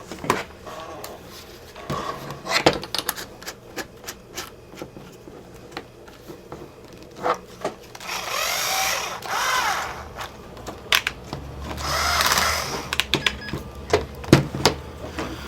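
Cordless power drill run in two short bursts about eight and twelve seconds in, the motor's pitch rising and falling in each, amid clicks and knocks of the drill and bit being handled.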